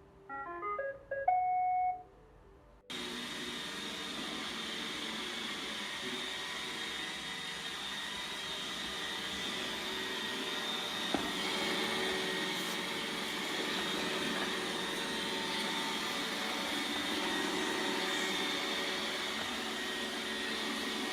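iRobot Roomba 690 robot vacuum playing its short start-up tune of stepped beeps ending on a held note, then its vacuum motor and brushes start with a steady whir about three seconds in and keep running. There is one faint knock partway through.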